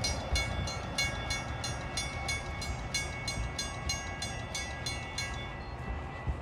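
Railroad grade-crossing bell ringing in rapid, even strokes, several a second, over a low rumble. The bell stops about five seconds in.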